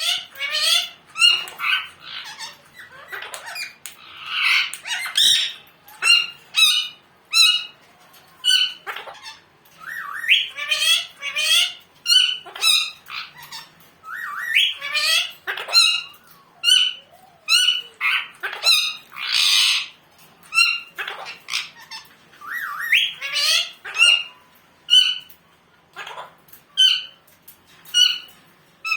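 Pet parrot squawking and calling over and over in short, sharp, high calls, roughly one or two a second, with a few longer rising calls among them.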